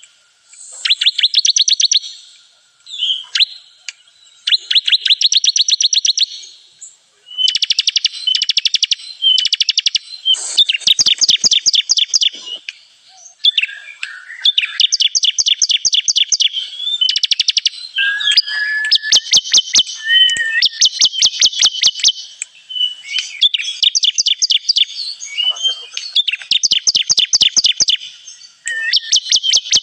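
Ciblek kristal (bar-winged prinia) song used as a lure call: repeated rapid trills of sharp, high chirps, about ten notes a second. The trills come in phrases of a second or two, with short breaks between them.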